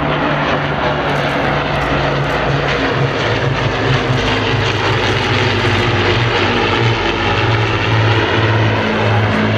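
Piston-engined Second World War propeller aircraft flying a display pass: a loud, steady engine drone whose pitch shifts a little as it passes.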